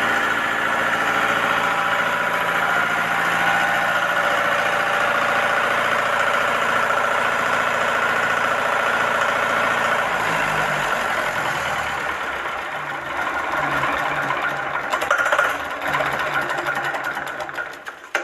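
A car engine running steadily; about ten seconds in its note changes and becomes uneven, and near the end the sound dies away.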